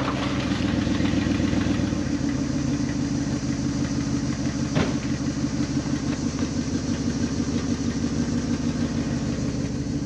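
Plow truck's engine running steadily at an even speed, with one sharp click about five seconds in.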